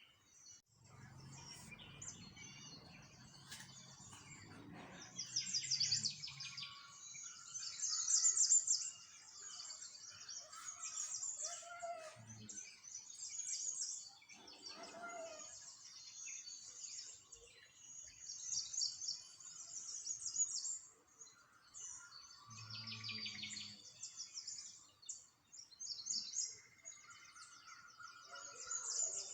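Many small birds chirping and twittering in a busy, overlapping chorus of high, quick calls and trills. A faint low rumble sits underneath in the first few seconds and again briefly later.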